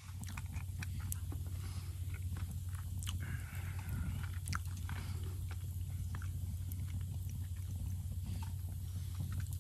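A person chewing a mouthful of taco, heard as many small wet clicks and crunches, over a steady low hum.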